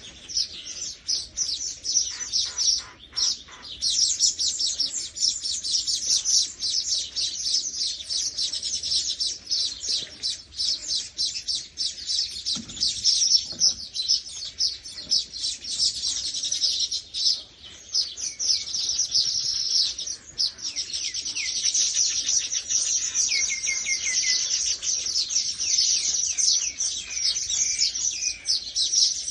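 Many small birds chirping and twittering at once in a dense, unbroken chorus of rapid high notes, with a few lower calls scattered through it.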